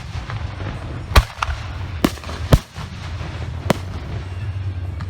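Professional aerial firework shells going off: four sharp booms about a second apart, over a steady low rumble.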